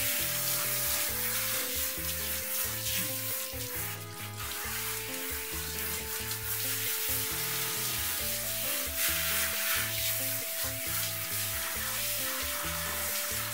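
Steady hiss of water spraying from a handheld shower head, under background music of held notes over a repeating bass line.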